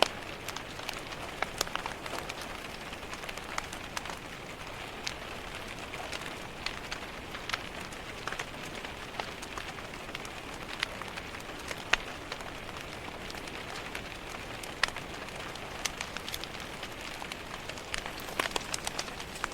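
Steady rain tapping on a window pane, with the sharp irregular pops and snaps of a crackling wood fire in a fireplace scattered through it. The loudest snaps come about twelve and fifteen seconds in, with a quick cluster near the end.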